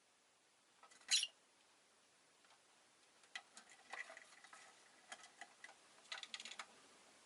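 A rosy-faced lovebird gives one short, sharp, high chirp about a second in. Soft scattered clicks and taps follow through the second half.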